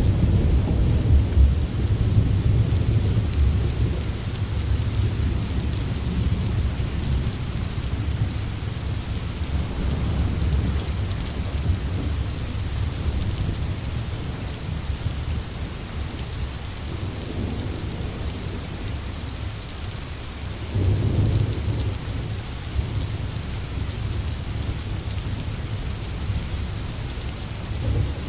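Steady rain with rolling distant thunder. The rumble is heavy through the first several seconds, eases off, then swells again about two-thirds of the way through.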